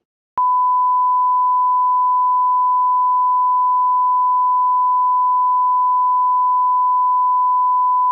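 A single steady electronic beep tone, one pure unchanging pitch, switching on with a click less than half a second in and holding without a break.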